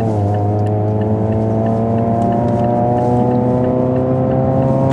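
Mazda3 1.6 inline-four engine, heard through a stock exhaust with the rear muffler removed, revved up at the start and then held at a steady raised rpm that creeps slowly higher.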